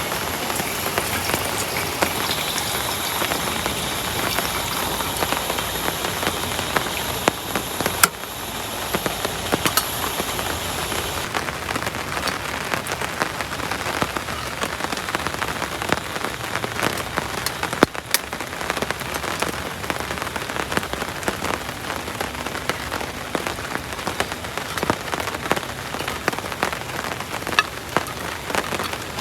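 Heavy tropical rain falling steadily, with many separate drop hits ticking through the downpour. A steady high hiss-like tone sits over the rain and stops about eleven seconds in.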